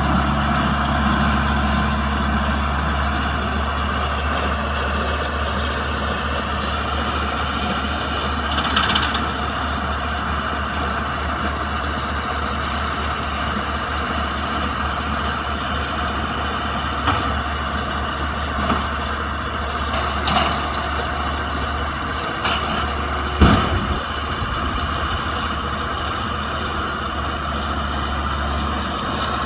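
Kubota M125X tractor's diesel engine running steadily, with a handful of short knocks and clanks, the loudest about two-thirds of the way through.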